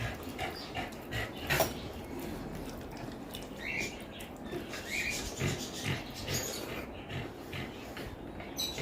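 Close-up wet chewing and lip-smacking of a mouthful of rice and chicken curry, with many short mouth clicks.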